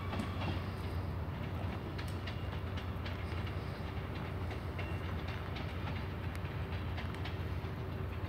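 Diesel train running slowly at the station: a steady low engine drone with scattered clicks of wheels over the rails.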